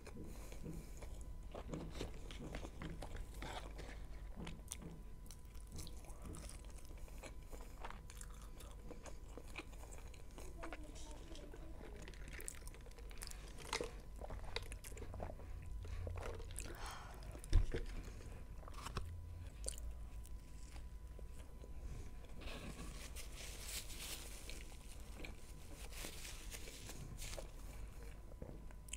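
A person chewing and biting into a Big Mac burger and French fries, with many small wet mouth clicks and crunches. A single sharp knock sounds about two-thirds of the way through.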